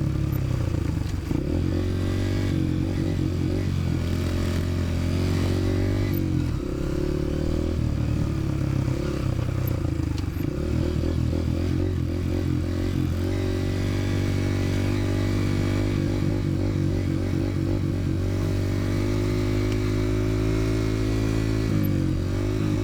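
Dirt bike engine running under way, its pitch stepping up and down several times as the speed changes.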